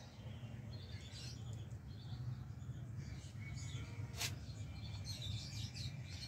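Small birds chirping faintly and intermittently over a steady low hum, with one sharp click a little after four seconds.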